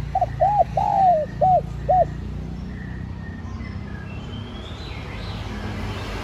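Spotted dove cooing: a phrase of five arched coos in about two seconds, the third one drawn out longer than the others. A steady low rumble and faint twittering of small birds run underneath.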